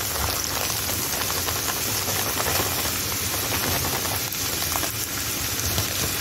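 Minced chicken frying in hot oil in a pan, a steady sizzle with fine crackling as mixed vegetables are poured in on top.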